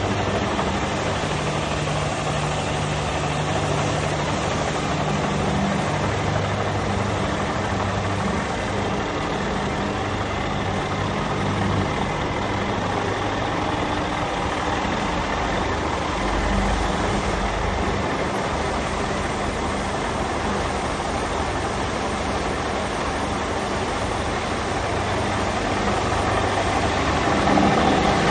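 Scania G 440 concrete mixer truck's diesel engine running steadily at idle, its pitch shifting slightly and growing a little louder near the end.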